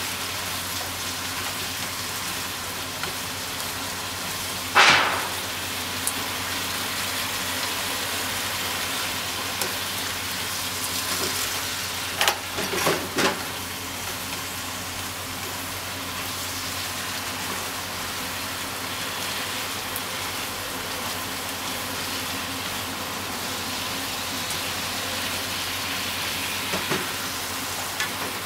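Pork belly, shimeji mushrooms and onion sizzling steadily in a frying pan as they are stir-fried, with wooden chopsticks knocking against the pan a few times: once sharply about five seconds in and in a quick cluster around twelve to thirteen seconds.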